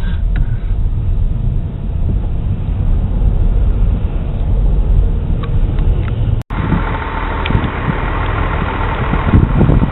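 Steady low rumble of a car's engine and road noise heard from inside the cabin in slow traffic. About six and a half seconds in the sound drops out for an instant and comes back with a louder hiss and gusty wind buffeting on the microphone.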